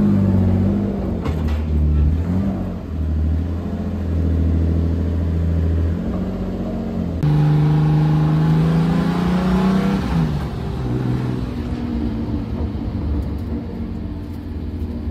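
Built turbocharged M50/M52 straight-six in a BMW E36, heard from inside the cabin, running steadily at low speed, then rising in pitch as it accelerates hard from about seven seconds in before easing off around ten seconds.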